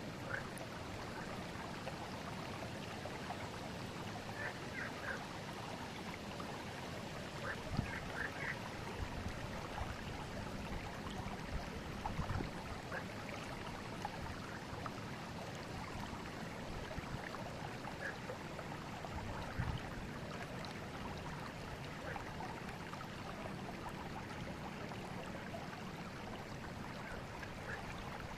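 Forest river flowing steadily, with small splashes and gurgles of water over stones scattered through the even rushing.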